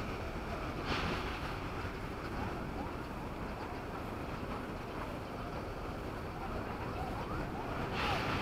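Train running along the track, heard from on board: a steady rumble and rush of wheels on rails and air. A brief louder rush of noise comes about a second in and again near the end.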